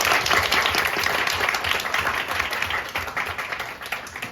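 Audience applause: many people clapping, thinning out toward the end.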